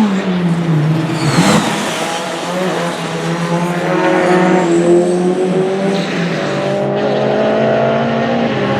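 Race car engine on a track, its revs dropping over the first second and a half, then climbing slowly as the car accelerates.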